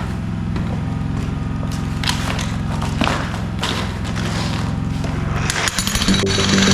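A motor running with a steady low hum, with a few scattered knocks and clatters. Near the end the hum breaks off and jackhammer hammering on concrete takes over.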